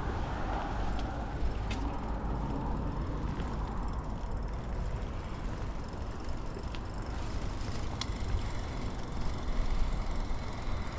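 Steady rumble of wind on the microphone and tyre noise from a bicycle being ridden, with a few faint clicks.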